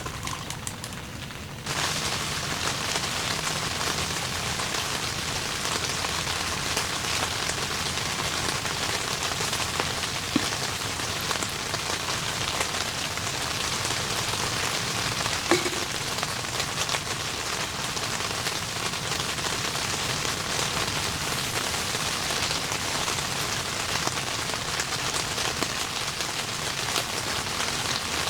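Heavy rain falling steadily, with a few louder single drops landing now and then. It grows abruptly louder about two seconds in.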